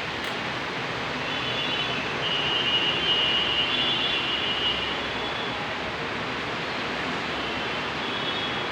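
Heavy rain falling steadily. A thin high tone joins it about a second in, fades out around the middle, and comes back near the end.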